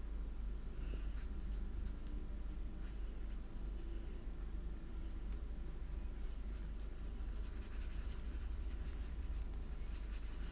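Watercolour paintbrush brushing across paper, faint, over a steady low hum.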